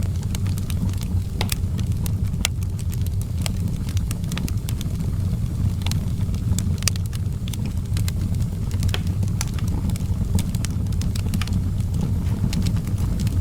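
Outdoor wood fire crackling, with irregular sharp pops over a steady low rumble.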